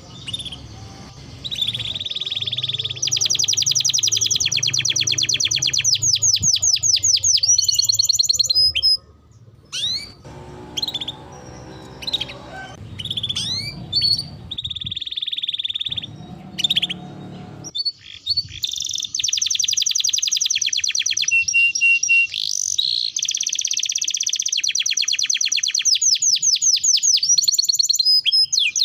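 Domestic canary singing: long, fast rolling trills and chirps, thinning to scattered separate notes for several seconds in the middle before the rapid trilling returns.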